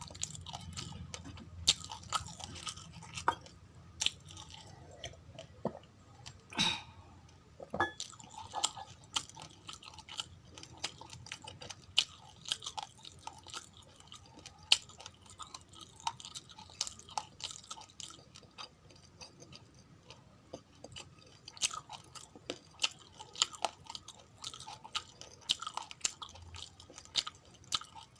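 Close-up chewing of uncooked rice grains: many small, irregular crunches and crackles as the hard grains are bitten and ground between the teeth.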